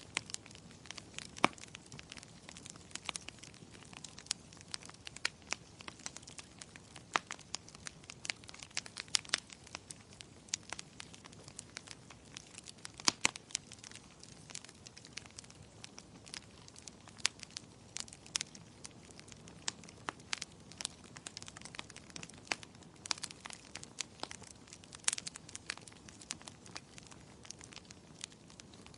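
Wood fire in a fireplace crackling, with irregular sharp pops several times a second over a faint steady hiss of flames.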